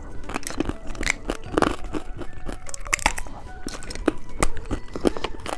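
Hard candy being bitten and chewed: irregular sharp crunches.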